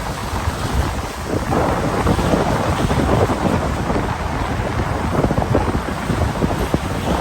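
Wind buffeting the microphone in a low, uneven rumble, over a steady rush of rain.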